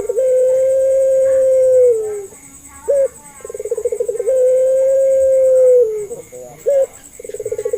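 Puter pelung (Barbary dove) cooing. Each coo starts with a short upward note, then a quick rolling trill, then a long drawn-out steady note that drops at the end, and the call repeats about every four seconds.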